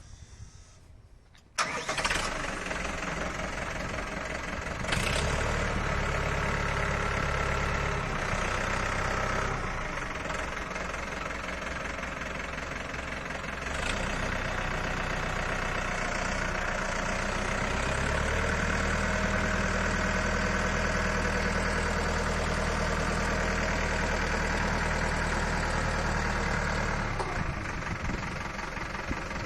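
Four-cylinder water-cooled diesel tractor engine starting up about a second and a half in, then running steadily. Its speed goes up and down a few times.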